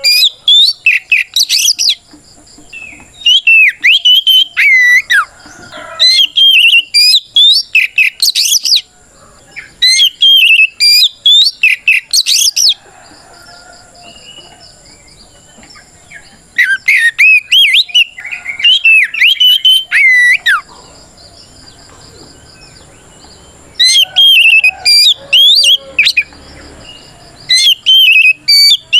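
Oriental magpie-robin (kacer) singing a loud challenge song: bursts of rapid, sweeping whistles and chirps lasting a few seconds each, repeated about seven times with short pauses between. It is a song that calls out a rival.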